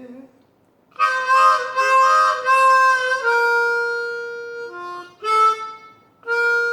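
Harmonica playing a short blues fill: a few held chords, then a long single note, a couple of short notes, and another held note starting near the end.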